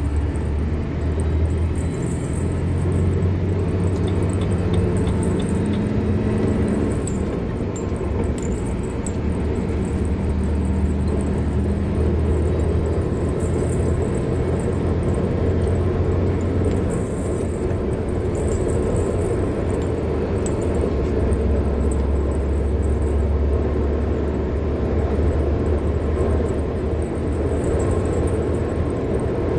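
A car driving along a road: a steady low rumble of engine and tyre noise, its engine note shifting slightly in the first few seconds.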